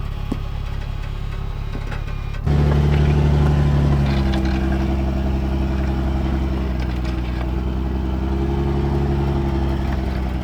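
Heavy wrecker truck's engine running steadily at an even pitch. About two and a half seconds in, it suddenly gets much louder and holds there.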